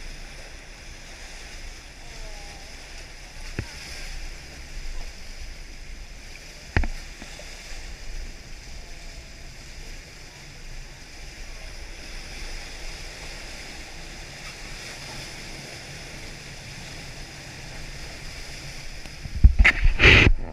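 Steady hum and water noise aboard a motor boat, with a single knock about seven seconds in and a loud rush of noise near the end.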